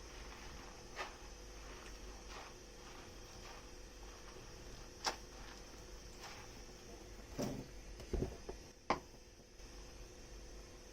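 Dishes and kitchenware being handled at a sink: a few separate knocks and clinks, the loudest about five and nine seconds in, over a faint steady hiss that stops near the end.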